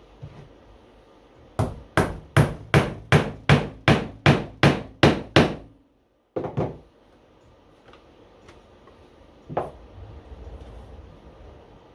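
A hammer driving nails into a wooden beehive frame: a run of about a dozen quick strikes, roughly three a second, then a couple more strikes after a short break and one last single blow.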